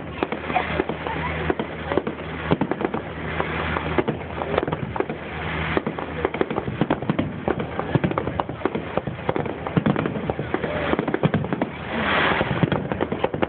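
Fireworks finale: aerial shells bursting in quick, irregular succession, a continuous run of bangs and crackles with a louder flurry near the end.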